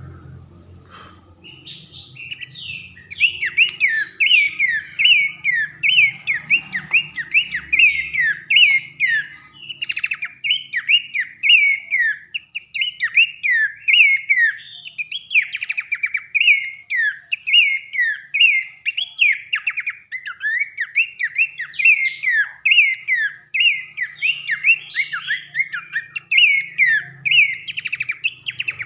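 Pelanduk semak babbler singing loudly: a fast, unbroken string of short, sharply falling whistled notes, starting a couple of seconds in.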